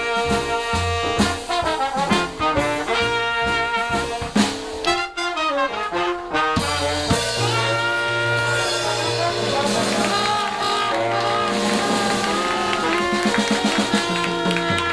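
Live jazz band playing, led by trumpet and trombone over a bass line, with held horn notes.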